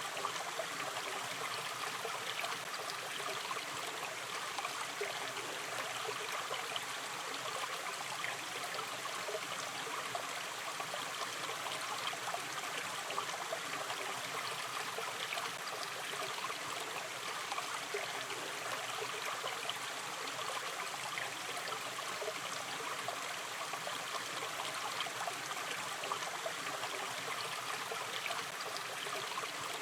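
Shallow river stream running and trickling with a steady rush of water.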